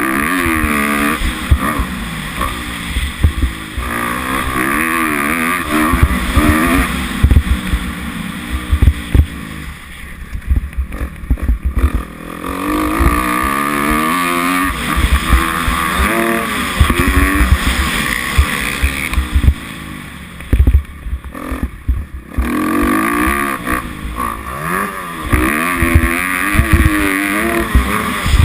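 Kawasaki 250F four-stroke single-cylinder motocross engine revving up and down as the bike is ridden around the track, its pitch climbing and dropping with each burst of throttle. The engine eases off twice, around ten and twenty seconds in, before pulling hard again.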